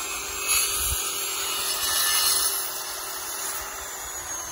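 Steady hiss of light rain mixed with wet snow, with a faint steady hum underneath that fades near the end.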